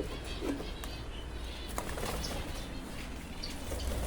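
Aviary birds fluttering and chirping: scattered short, high chirps and brief wing flaps.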